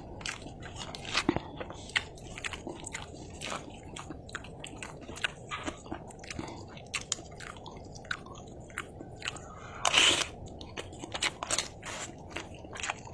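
A person chewing fried instant noodles close to the microphone: irregular wet chewing and mouth clicks, with a louder, noisier burst about ten seconds in.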